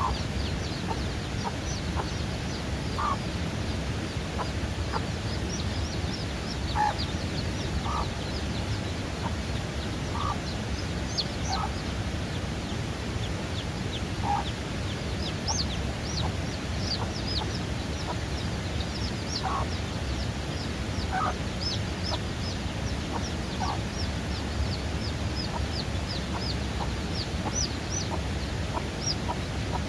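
Newly hatched chicks peeping: many short, high chirps that fall in pitch, with lower clucking calls now and then, over a steady low background noise.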